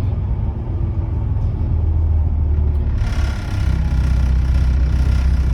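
Volvo B7TL bus's six-cylinder diesel engine heard from on board, a deep rumble through its blown exhaust. About three seconds in, a brighter rattly noise joins, and the engine note steps up and grows louder as it comes under load.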